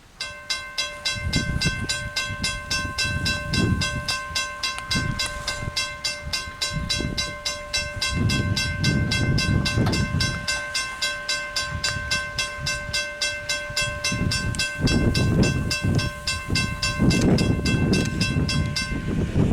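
Railroad grade-crossing warning bell ringing in rapid, evenly spaced strikes. It starts suddenly and cuts off just before the end, over a gusty low rumble.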